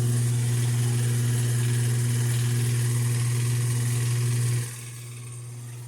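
Top-load washing machine's motor running with a loud steady hum while the machine fails to agitate; the hum drops sharply in loudness about four and a half seconds in. The noise is the symptom of a failed motor coupling between the motor and the transmission.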